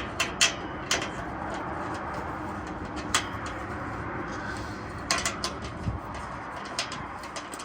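Scattered sharp metallic clicks and knocks of exhaust clamp hardware and tools being handled, over a steady background hum.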